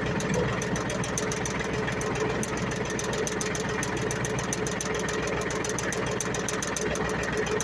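Ford 1720 compact tractor's three-cylinder diesel engine idling steadily, with an even, rapid firing pulse.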